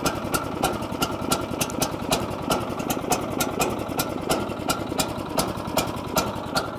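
Sawmill engine idling just after starting, left to warm up, with a rapid, regular ticking running through its steady running.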